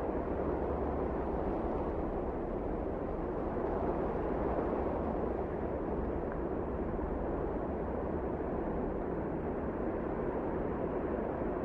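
Strong wind blowing steadily: an even, low rush of noise with no gusts standing out.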